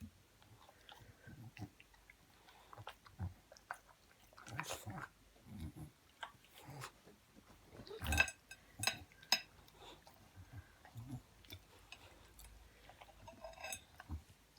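Olde English Bulldog chewing a piece of melon: irregular faint mouth smacks and bites, with a few louder clusters about five and eight to nine seconds in.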